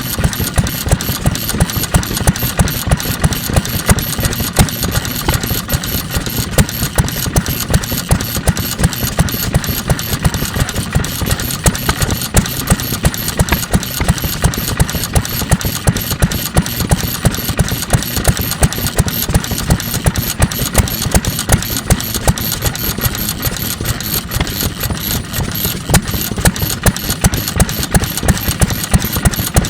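Single-cylinder National Type FK 3 hp stationary oil engine running steadily, with a regular beat of sharp firing strokes, roughly three a second, over mechanical clatter.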